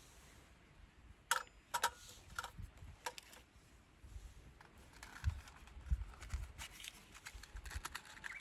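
Handling noises: a run of sharp clicks and knocks starting about a second in, then rustling and a couple of low thumps.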